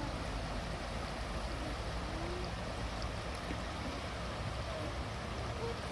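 Steady rushing outdoor noise with a heavy low rumble and a few faint, short calls.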